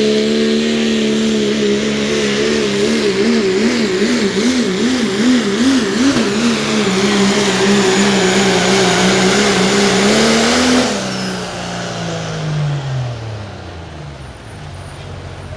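Diesel pulling truck's engine at full power under load, its pitch wavering up and down for a few seconds, then holding steady, with a high whistle above it. About eleven seconds in, the engine lets off and its revs fall away.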